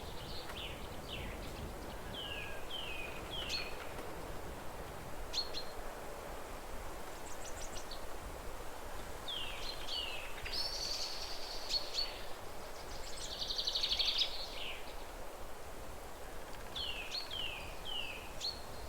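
Small birds calling: short downward-sliding chirps, often in quick runs of two or three, and a couple of buzzy, rapidly pulsed trills, over a steady background hiss.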